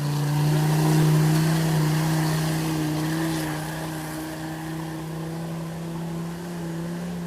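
A UAZ's Mercedes OM617 3.0 five-cylinder diesel engine running hard at steady revs. It is loudest about a second in, then slowly fades.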